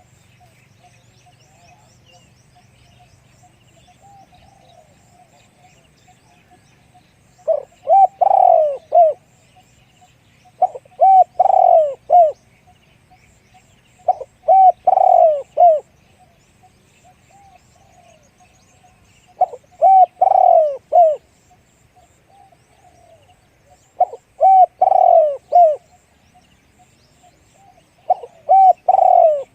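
Spotted dove cooing: six phrases of several deep, arching coos each, coming about every four seconds and starting about seven seconds in. Faint chirps of small birds run behind.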